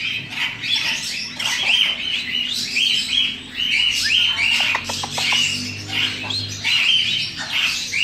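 Caged birds chirping continuously, short high chirps repeating about twice a second.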